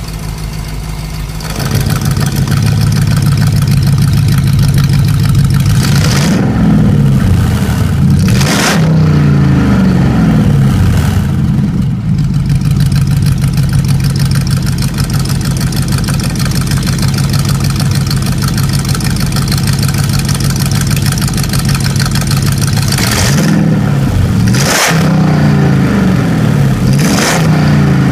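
Jeep Grand Cherokee SRT-8's V8 through an aftermarket exhaust with a remotely controlled cut-out: it idles, gets abruptly louder about a second and a half in, and is then blipped and revved in a few quick rises and falls. It settles to a steady idle for a while, then is revved again near the end.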